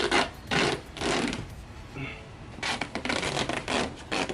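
Foam pit cubes rubbing and scraping against each other as they are pushed and fitted into place: two strokes near the start, then a quick run of four or five more later on.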